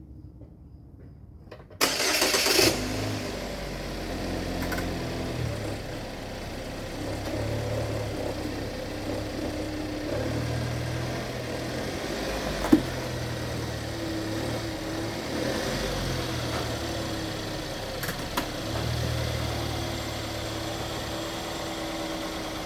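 A car engine cranks and catches about two seconds in, then runs steadily at idle. A single sharp tap partway through.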